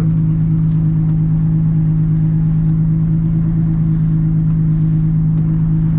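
Nissan 350Z's V6 engine running steadily at a constant speed, heard from inside the cabin, with no revving.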